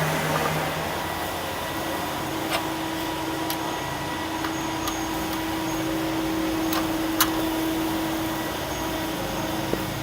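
Steady mechanical whirring with a held hum, and a few sharp clicks or taps, the loudest about seven seconds in.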